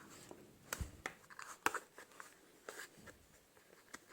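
Faint handling noises as a rubber grommet is pushed by hand through a plastic bodywork panel: scattered small clicks and rubs, with a couple of sharper knocks about one and two seconds in.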